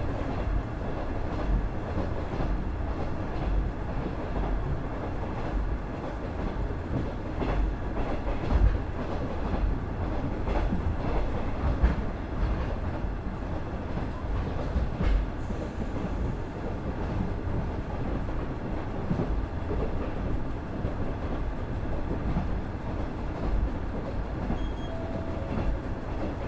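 Cabin running sound of a KiHa 110 series 200-subseries diesel railcar with its Cummins DMF14HZA engine: a steady low noise from the moving car, with a few knocks of the wheels over rail joints.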